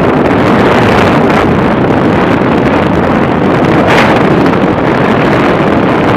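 Loud, steady rushing noise with no distinct tones.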